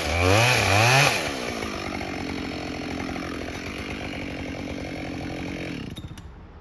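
Chainsaw revved up and down a few times, then running steadily for several seconds before cutting out near the end.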